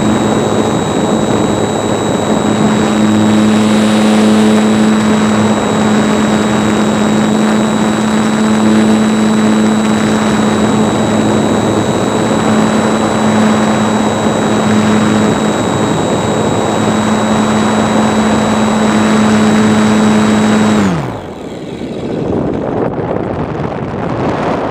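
RC airplane's motor and propeller running steadily at one pitch over a constant rush of air. About 21 seconds in, the motor is throttled off: its pitch falls quickly and it stops, leaving only wind rushing past the microphone as the plane glides.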